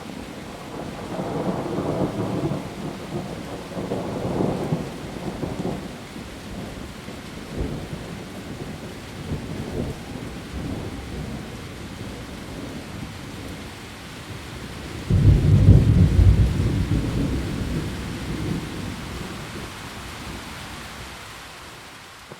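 Heavy rain falling steadily on leaves, with thunder: rolling rumbles in the first few seconds, then a sudden loud thunderclap about fifteen seconds in that rumbles away over the next several seconds.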